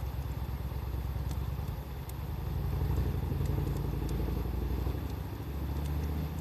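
Wood fire crackling, with a few sharp pops, over a low, uneven rumble that swells in the middle and is the loudest sound.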